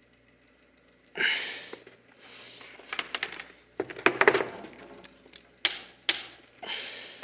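Handling clatter: irregular knocks, clicks and rustling as a hard object is moved about and set down, with sharp knocks about a third of the way in and again near the end.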